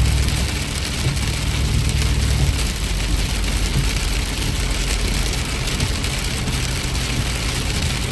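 A car driving on wet roads in heavy rain: a steady hiss of rain and tyre spray over a low engine and road rumble. The rumble eases about two and a half seconds in.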